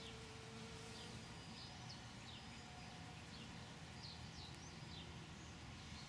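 Faint small-bird chirps: a scattered series of short, high, falling notes over a low, steady background hum.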